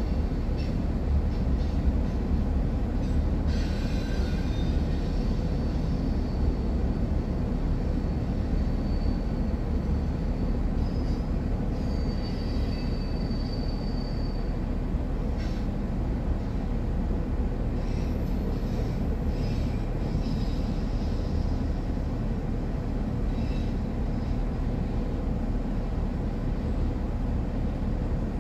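Freight train cars rolling past steadily, their wheels rumbling over the rails, with a few faint high-pitched wheel squeals.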